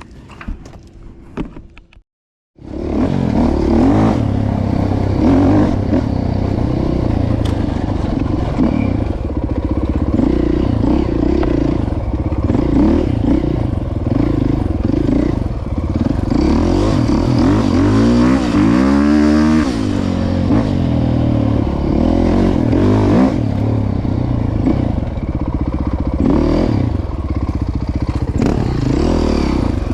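A vehicle engine running steadily, cutting in abruptly about two and a half seconds in after a few faint clicks. Its pitch sweeps up and down a little past the middle.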